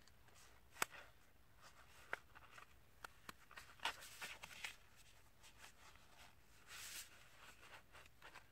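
Faint handling of a folded sheet of letter-size paper: scattered light taps and crinkles, with a short rustle about seven seconds in.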